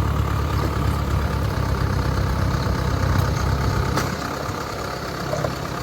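Rice combine harvester engine running steadily with a low rumble that eases slightly about four seconds in.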